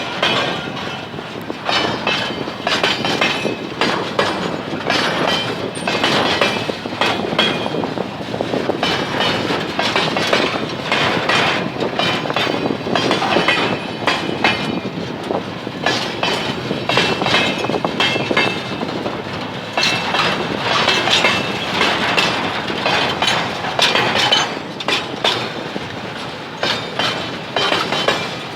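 Freight train wagons rolling past, their wheels clattering over the rail joints in a steady run of irregular knocks and clanks.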